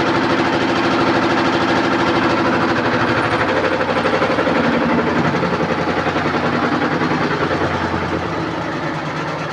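Washing machine running a spin cycle: a steady motor drone with fast, even rhythmic thudding. The pitch drops about halfway through, and it grows quieter near the end.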